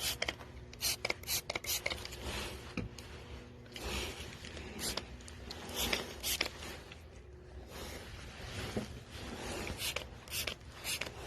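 MIG welder arc crackling in short, irregular bursts as a bead is laid on steel.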